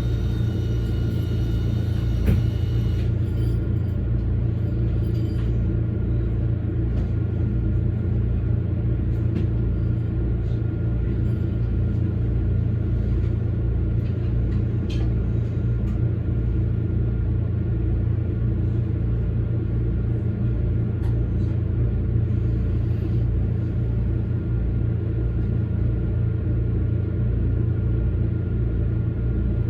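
Toyama Chiho Railway electric train running on the line: a steady low rumble of motors and wheels on the rails, with a faint steady high tone above it. There is a single sharp click about two seconds in.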